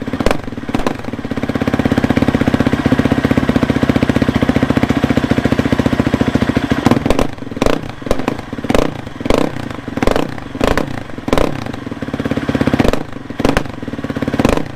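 Husqvarna FE 350s single-cylinder four-stroke dirt bike engine, exhausting through its stock muffler with a Pro Moto Billet end cap, idling with a rapid steady beat. About halfway in it breaks into a series of quick throttle blips. The engine is cold.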